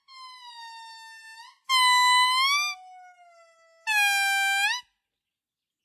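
A primate giving long, clear whistle-like calls: three notes of about a second each, held at one pitch and sliding up at the end, the first faint and the next two louder, with a faint lower, falling note between them.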